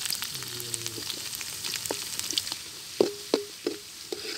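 Chopped ginger, garlic and green chillies sizzling as they fry in hot oil in a large metal pan. A metal ladle stirring them clinks against the pan about four times near the end.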